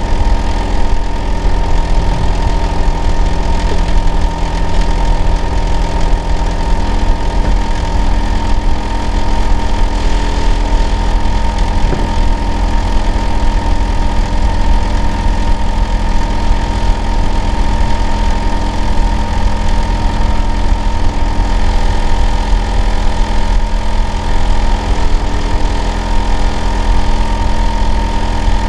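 Hitachi air-conditioner outdoor unit running steadily in winter: a loud low hum with a constant whine on top. The owner's neighbour hears it as an abnormal noise.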